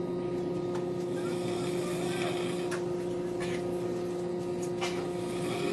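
Steady hum inside a Tilt Train passenger carriage, a few even tones over a constant rumble, with a few faint clicks.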